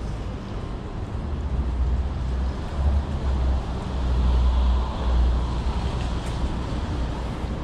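City street traffic noise: a vehicle passes, its tyre and engine noise swelling about halfway through and fading, over a steady low rumble.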